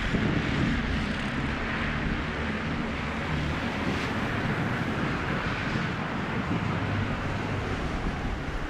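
Steady engine rumble and road noise of a vehicle dragging the drag-strip surface during track prep.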